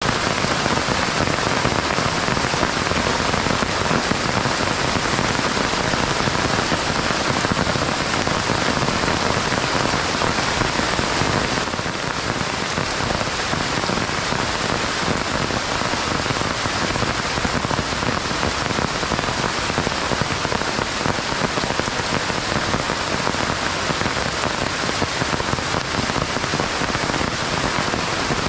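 Heavy rain falling steadily, a dense hiss of countless drops; it eases slightly about twelve seconds in.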